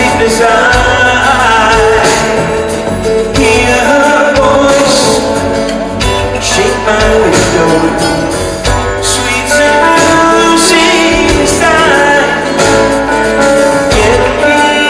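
Live rock band playing a song, with a man singing the lead melody over guitar, bass and drums, amplified through a concert hall's sound system.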